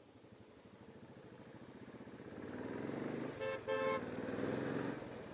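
A vehicle horn gives two short toots in quick succession, over road-vehicle engine noise that swells and then fades.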